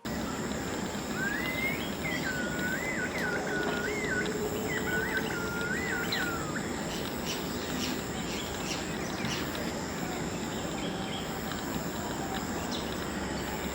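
A bird singing a phrase of wavering, warbled whistled notes for a few seconds, over steady outdoor background noise and a continuous high insect trill, with a run of short, sharp high chirps after the song.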